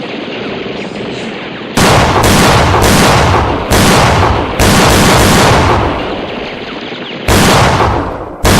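Gunfire sound effects: after a steady background hiss, a run of loud shots starts about two seconds in, three in quick succession and then more spaced a second or so apart, each trailing off.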